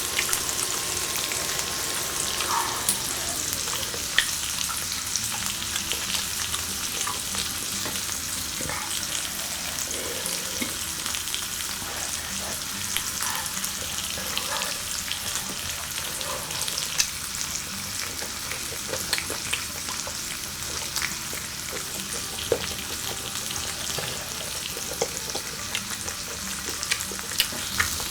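Food sizzling steadily on an electric grill, with scattered short sharp pops.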